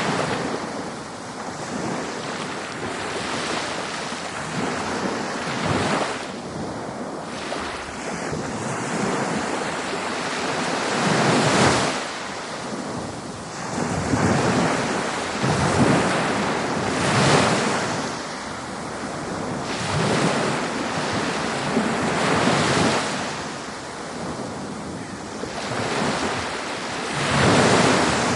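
Ocean waves breaking on a beach: steady surf wash with a wave surging in and breaking every few seconds, the biggest near the middle and again near the end.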